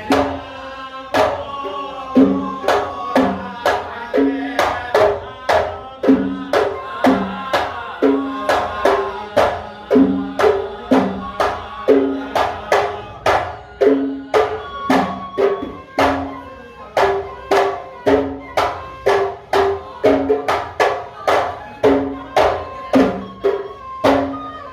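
A traditional wedding band plays: hand drums beat a steady rhythm of about two strokes a second, with a melody instrument playing above them.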